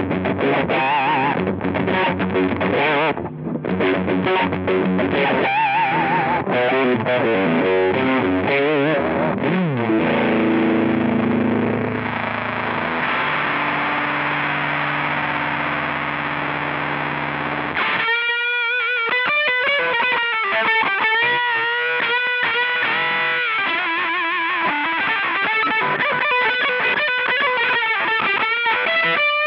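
Electric guitar played through a Rowin LEF-606 fuzz pedal: fuzzy riffs with bent and wavering notes, then held chords that sustain for several seconds. About two-thirds of the way in, the tone turns cleaner and less fuzzy as single-note lines are played.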